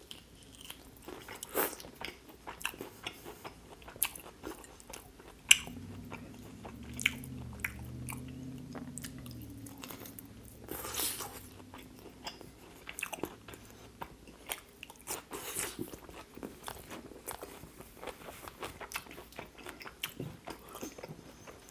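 Close-miked chewing of a cooked asparagus spear: wet biting and crunching clicks with mouth noises throughout. A low closed-mouth hum runs for a few seconds around the middle, and a wet suck as fingers are licked follows shortly after.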